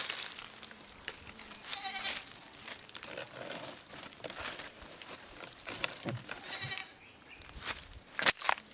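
Goat bleating briefly twice, about two seconds in and again near seven seconds, with a few sharp clicks near the end.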